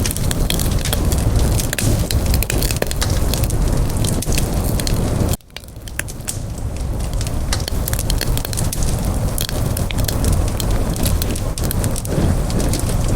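Wood campfire burning, a steady hiss with many sharp crackles and pops. About five seconds in the sound drops out abruptly for half a second, then fades back up.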